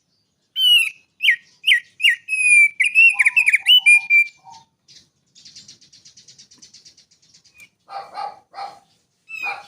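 Songbird singing: a fast run of loud whistled chirps and slurred notes, then a fine buzzy trill in the middle, and a few harsh scratchy notes near the end.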